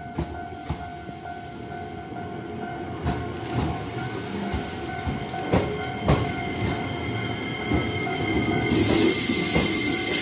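Shizuoka Railway A3000-series electric train running past a level crossing, its wheels clicking over the rail joints in pairs about half a second apart, louder as the cars come close. The crossing's warning bell rings steadily over it, and near the end a loud rushing hiss comes in as the cars pass right by.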